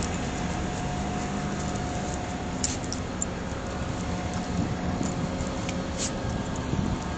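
Steady background hum with a few faint steady tones, broken by a few light clicks.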